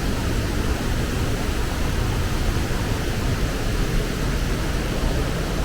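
A waterfall swollen by typhoon rain, its heavy flow making a steady, loud rush of water.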